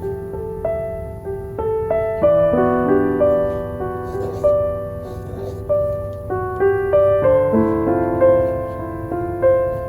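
Gentle solo piano music: a slow melody of single notes and soft chords, each note ringing on. Faint crackles from a wood-wick candle sit underneath.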